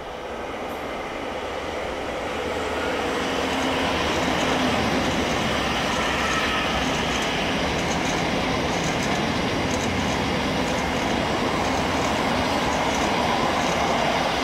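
Passenger train approaching along the platform toward the listener. Its running noise builds over the first few seconds, then holds steady and loud.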